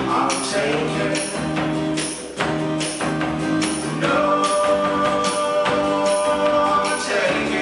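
Live indie band playing a song, a tambourine keeping a steady beat under sustained instrument notes, with a voice singing near the start and again near the end.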